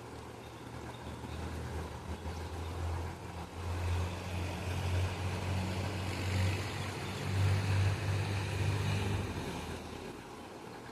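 Low engine rumble of a passing motor vehicle, growing louder from about two seconds in, loudest around eight seconds, then fading near the end.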